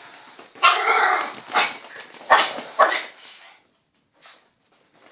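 Dog barking about four times in quick succession, the first bark the longest.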